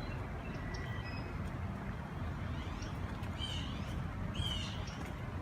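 Blue jay giving two harsh calls about three and a half and four and a half seconds in, after a fainter one, over a steady low rumble.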